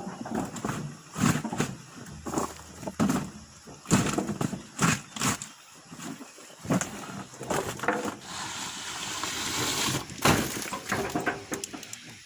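Irregular thuds and knocks, a dozen or so, from oil palm fruit bunches being loaded onto a truck, with a steady hiss from about eight to ten seconds in.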